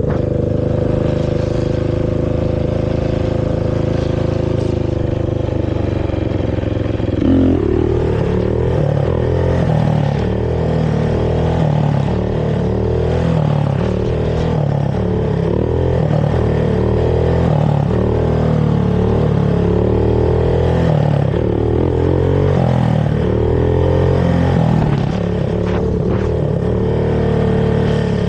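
Carbureted Honda TRX450R quad's single-cylinder four-stroke engine through its stock exhaust. It holds a steady, slowly sagging note for about seven seconds, then is revved up and down repeatedly, about once a second.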